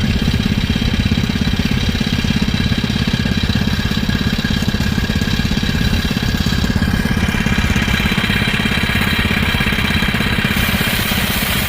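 Motorised rice threshing machine running steadily, its small engine and beating drum making an even, fast-pulsing drone.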